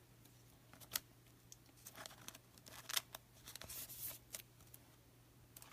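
Faint scattered clicks and brief rustles of baseball cards being handled and slid against each other, over a low steady hum.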